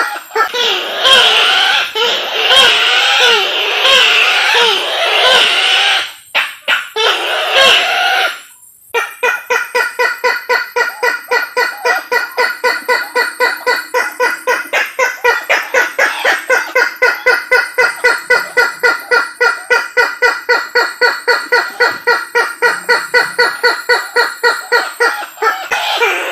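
Sulawesi kareo (tattakeo), a rail, calling from a lure recording: a loud, wavering, chattering call broken by two short pauses, then a long run of short, evenly repeated notes, about three a second.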